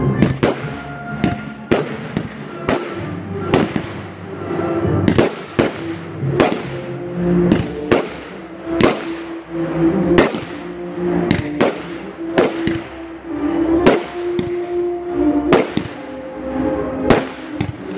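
Aerial fireworks bursting in a steady, irregular stream of sharp bangs, about two a second, with music playing underneath.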